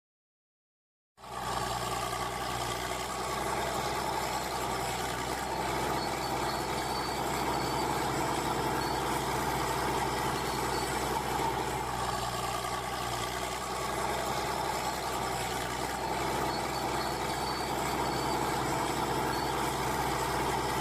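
A truck engine sound running steadily and evenly, without revving, starting about a second in after a moment of silence.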